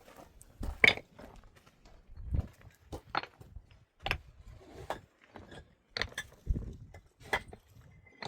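A series of irregular knocks and clatters, about one a second, the loudest about a second in, some with a dull low thud, like objects being handled and set down.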